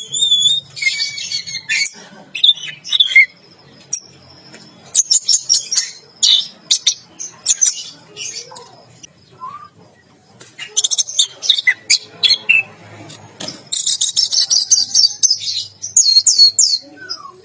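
Orange-headed thrush singing in full voice: bursts of rapid, high, sharp notes separated by short pauses, the longest and densest run coming near the end.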